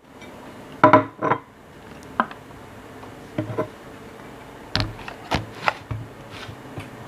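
A string of separate knocks and clinks of kitchenware being handled, the two loudest about a second in.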